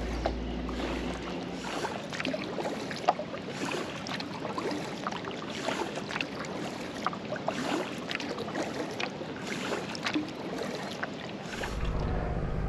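Kayak paddle strokes: the blades dip into the river again and again, with splashing and dripping water and a steady watery hiss.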